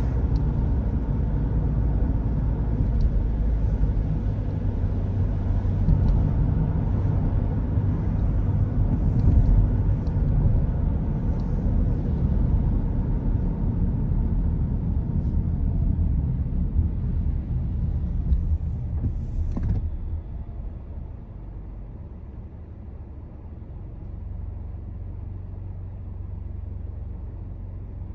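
A car's steady low road and engine rumble while driving on a wet road. It quietens clearly about two-thirds of the way through as the car slows.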